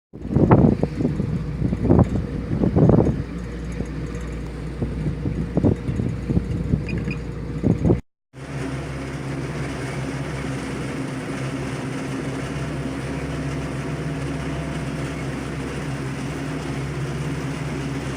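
Wind buffeting the microphone in irregular gusts. After a short break about eight seconds in, an engine runs with a steady, even hum.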